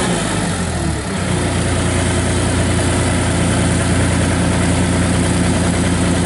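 Gehl 4835 skid steer loader's diesel engine running. Its speed shifts during the first second, then it settles and holds one steady pitch.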